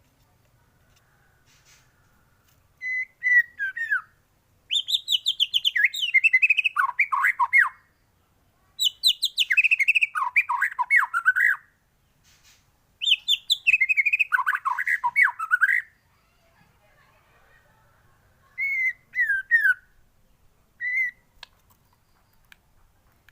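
White-rumped shama singing in full voice: three long, varied phrases of about three seconds each, each starting with high whistles and dropping into lower rapid warbles, with shorter phrases before and after.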